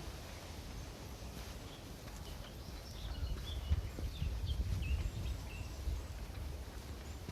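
Small birds chirping, a quick run of short chirps in the middle, over wind rumbling on the microphone.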